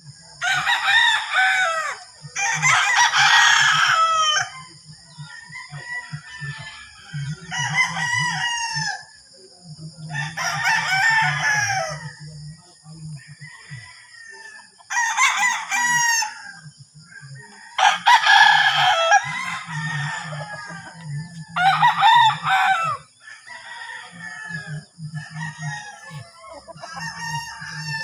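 Several roosters crowing one after another, a dozen or so crows of a second or two each, some overlapping, over a steady high-pitched ringing.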